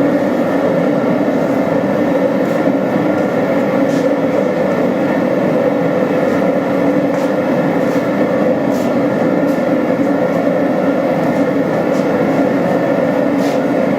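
Forge running hot, a loud steady roar that does not change.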